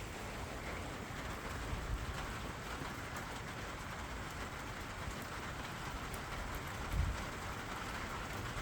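Steady rain falling, an even hiss of drops on the surfaces around. A brief low thump about seven seconds in.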